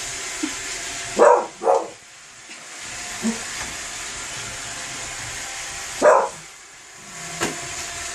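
A dog barks three times, twice in quick succession about a second in and once more near six seconds, over the steady hissing whir of a running Roomba robot vacuum.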